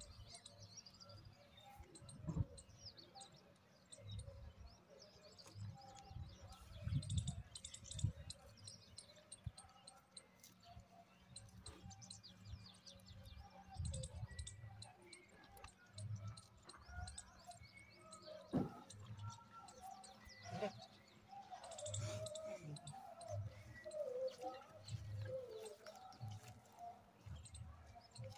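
Small birds chirping and twittering throughout, with soft low thuds now and then and a few sharp knocks.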